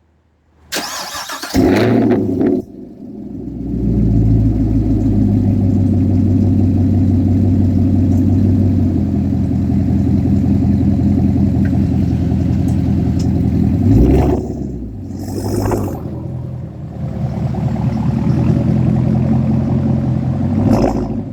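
A 2019 Camaro SS 1LE's 6.2-litre V8 with a straight-piped exhaust cold-starting: it fires with a loud flare about a second in, then settles into a steady idle. The idle swells and dips briefly about two-thirds of the way in, and again near the end.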